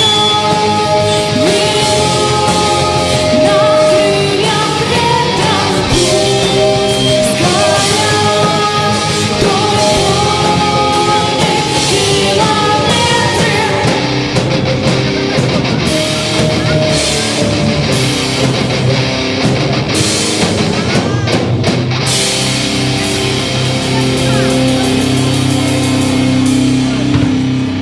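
Rock music with electric guitar and a drum kit playing sustained melodic lines over steady cymbals. From about 22 seconds in, it settles into a long held low chord.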